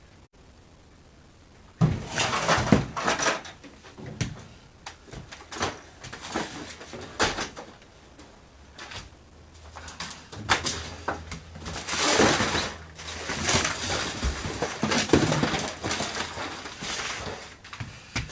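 Scattered knocks, clatters and rustling of things being handled and moved about, starting about two seconds in and going on irregularly.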